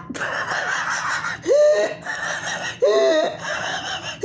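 A person laughing: breathy laughter, then two short voiced bursts of laughs.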